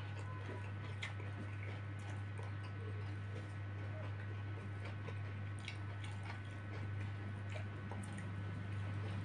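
A man chewing duck and rice, with soft wet mouth clicks and squishes scattered through, over a steady low hum.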